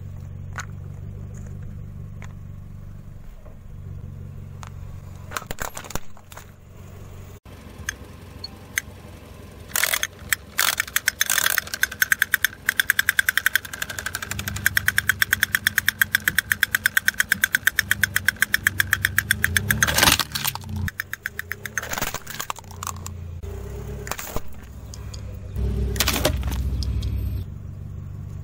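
A car engine idling steadily under everything. From about twelve to twenty seconds in comes a rapid, even tapping: a toy pig drummer beating its drum. Scattered sharp plastic clicks and knocks come from toys being handled and set down on the asphalt.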